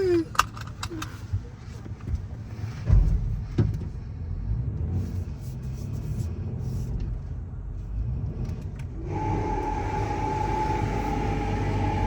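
Low rumble with a few sharp knocks, then about nine seconds in car wash machinery starts up with a steady high whine over a rushing noise.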